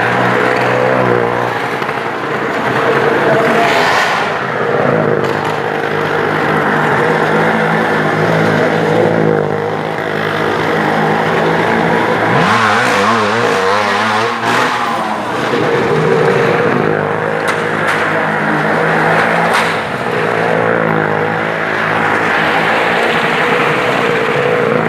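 Loud motor vehicle engines running and revving, with the pitch swinging up and down about halfway through.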